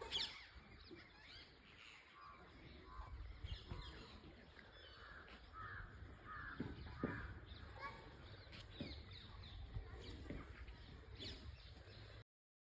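Faint outdoor ambience: scattered bird calls and chirps, some caw-like, over a low steady rumble. It cuts off abruptly just before the end.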